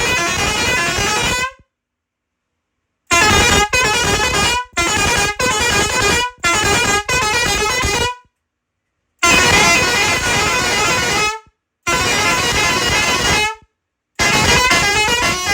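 Bosco Indian pressure horn for trucks sounding a run of loud blasts in changing pitches, like a short tune: one long blast, then a string of short notes, then longer blasts. It cuts off fully between blasts.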